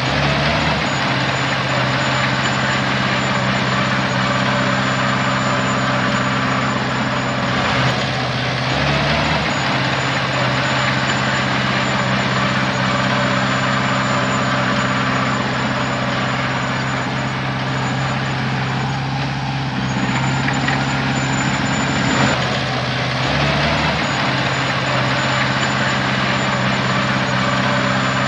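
Heavy diesel engine running steadily, its note dipping briefly twice, with a thin high whine over it.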